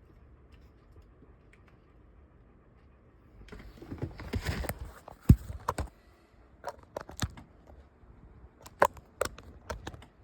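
Packaging being handled during an unboxing: a burst of rustling about three and a half seconds in, a sharp click, then a scatter of small clicks and knocks.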